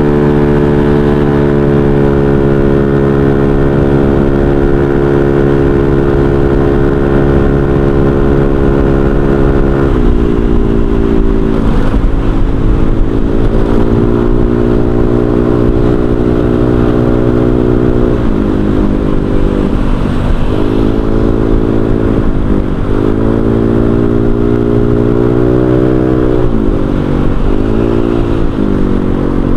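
Honda Vario 125 scooter's single-cylinder four-stroke engine through an aftermarket racing exhaust, heard while riding. It holds a steady cruising note, drops in pitch about ten seconds in as the throttle is eased, then dips and picks back up several times near the end.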